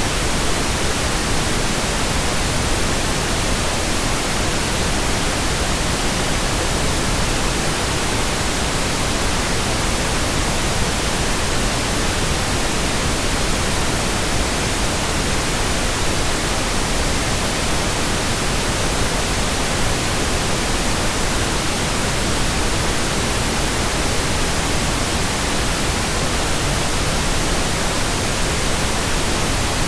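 Steady white noise: an even hiss spread across all pitches, with no change in level.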